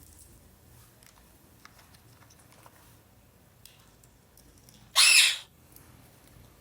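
A parrot squawks once, loud and short, about five seconds in. Before it there are only a few faint small clicks.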